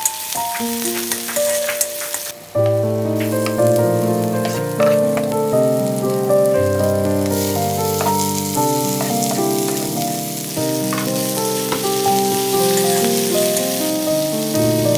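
Chopped onions and vegetables frying in oil in an iron wok, with a steady sizzle and the clicks of a spatula stirring. Background music with held melodic notes plays throughout and fills out with a bass line about two and a half seconds in.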